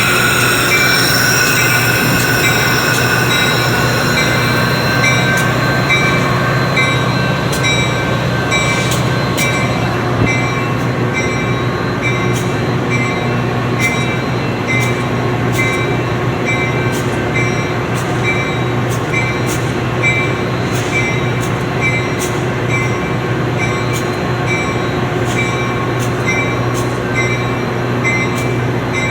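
Metra diesel commuter train with wheels and brakes squealing in high tones that fade out over the first few seconds, then a steady low engine hum while a bell rings at a regular pace.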